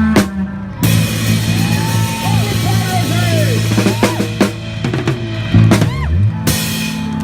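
Live punk rock band playing: drum kit with cymbal crashes about a second in and near the end, over sustained bass and guitar notes with bending, sliding pitches in between.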